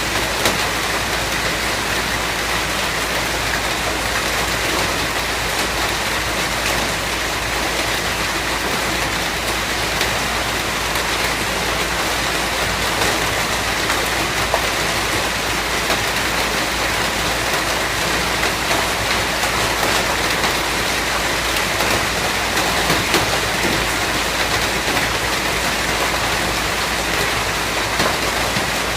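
Steady, heavy rain falling, a dense even hiss with scattered drop impacts.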